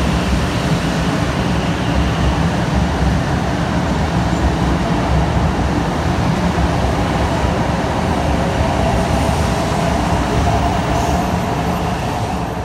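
Hello Kitty–liveried 500 series Shinkansen pulling out of the platform and gathering speed: a steady, loud rumble of wheels on rail and running gear as the carriages pass close by.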